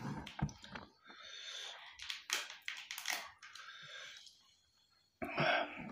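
Close-up eating sounds of a man chewing rice and buffalo-meat curry, with wet mouth clicks and smacks between hissing breaths. The sounds drop away a little before the end, and then a short louder burst follows.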